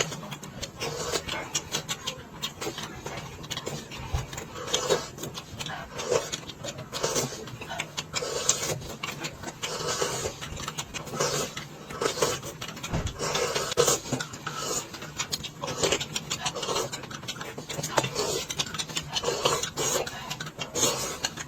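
Close-miked eating sounds: a continuous run of chewing and lip smacking with many small wet clicks.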